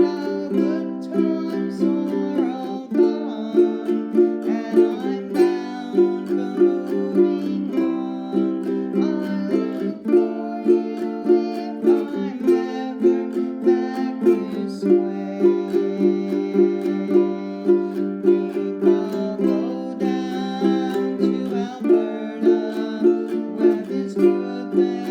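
Ukulele strummed in a simple shuffle strum, a steady rhythmic pattern moving through C, D minor, G7 and F chords.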